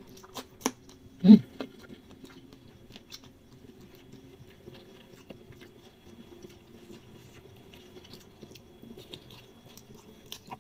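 Someone eating fried noodles: faint chewing and small mouth clicks and taps, with one short vocal sound about a second in, over a steady low hum.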